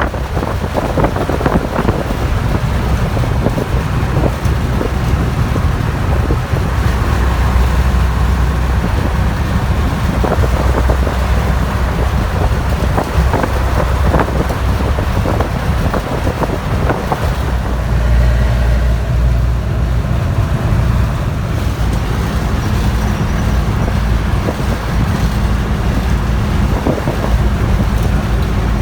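A motor vehicle running steadily while travelling: a low engine hum with rattles and knocks.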